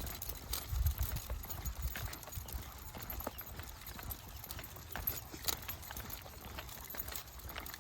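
Footsteps on a trail during a walk, heard as irregular short crunches and clicks over a low rumble on the microphone.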